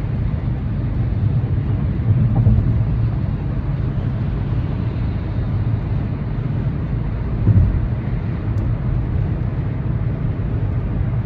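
Steady low rumbling noise, swelling briefly a couple of times.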